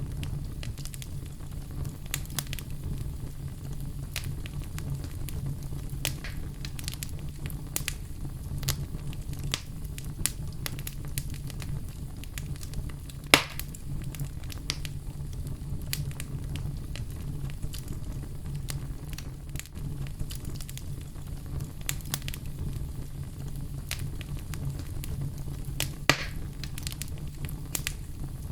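Fire in a fireplace crackling, with frequent small pops over a steady low rumble. Two louder snaps stand out, one about halfway through and one near the end.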